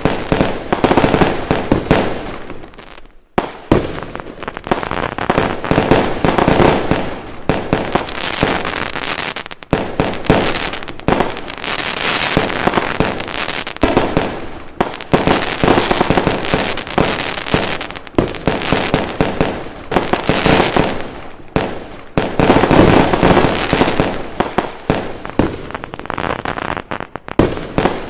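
Fireworks going off in a dense, continuous barrage: rapid cracks and bangs overlapping one another, with a brief lull about three seconds in.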